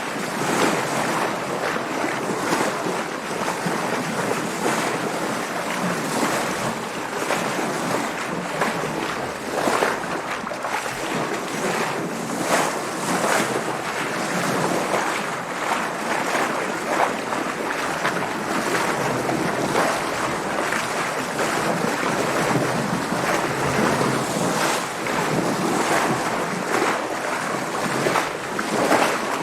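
Sea water splashing and rushing against the hull of a sailing boat, with wind, in a continuous wash broken by frequent short surges.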